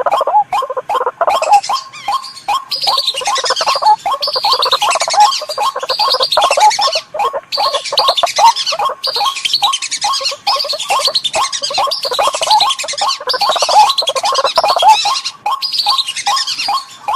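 Bird-lure recording of white-breasted waterhen (ruak-ruak) and belibis merah (whistling duck) calls: loud, rapidly repeated lower call notes overlaid with rounds of higher, falling calls, going on without a break.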